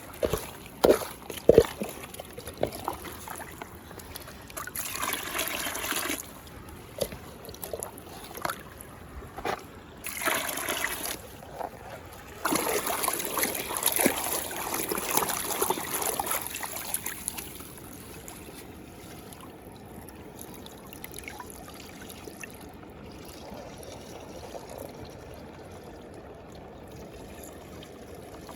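Muddy water pouring and splashing in bursts, with a few sharp splashes in the first few seconds and the longest pour from about 12 to 17 seconds in, then settling into a quieter steady trickle.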